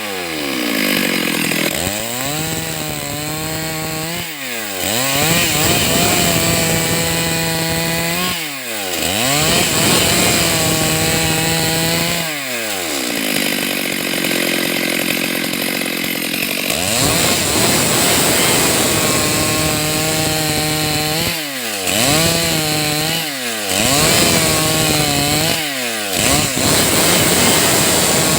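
Stihl MS 382 two-stroke chainsaw cutting through wood at high revs, its pitch sagging under load. Every few seconds the throttle is let off, so the engine drops sharply toward idle and then revs up again into the next cut.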